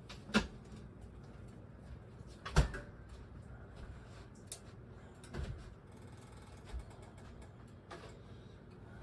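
Kitchen handling noises: two sharp knocks, the second about two seconds after the first and the loudest, then a few fainter clunks.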